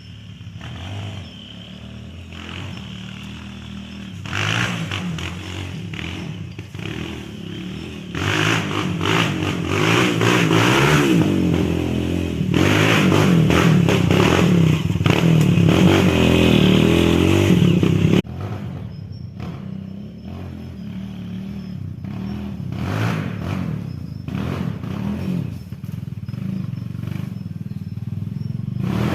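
Honda XR200 trail bike's single-cylinder four-stroke engine running and revving, its pitch rising and falling with the throttle. It is loudest through the middle, then drops suddenly to a lower running sound about two thirds of the way through.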